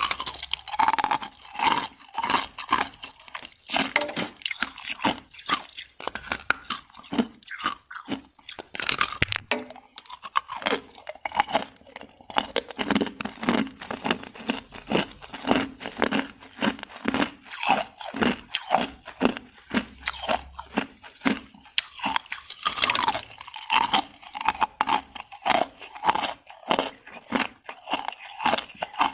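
Hard ice being chewed close to the microphone: a steady run of sharp crunches, several a second, without a break.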